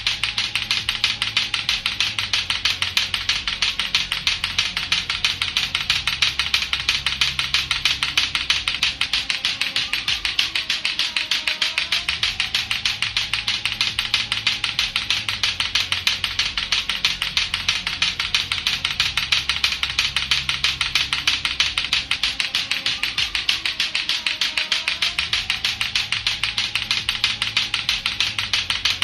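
Lato-lato clacker toy, two plastic balls on a string knocking together in a fast, steady run of sharp clacks. Under the clacking is a looping music track with a bass line.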